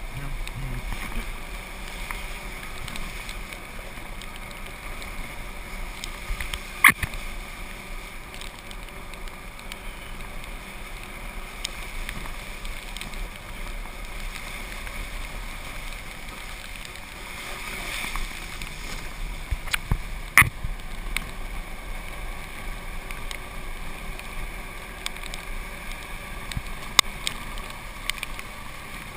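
Golf cart driving along with a steady running hiss and a faint whine, broken by three sharp knocks, the loudest about a third and two-thirds of the way through.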